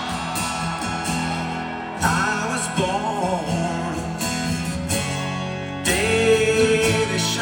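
Live rock band playing a song's opening, with guitar prominent. A wavering melody comes in about two seconds in, and a note is held near the end.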